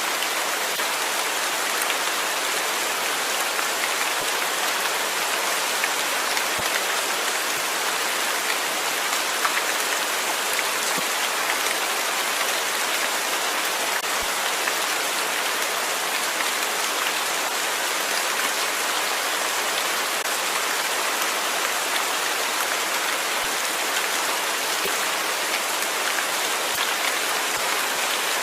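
Steady rain falling, an even hiss of many drops with faint scattered taps.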